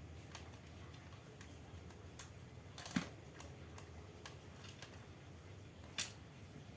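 Small clicks and taps from handling an electric fan's parts during disassembly, with two sharper clacks about three and six seconds in.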